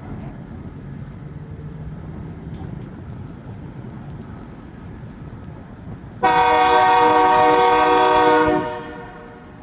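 Diesel locomotive of a freight train rumbling past, then sounding its air horn in one long, loud blast of about two and a half seconds, a chord of several tones that cuts off sharply.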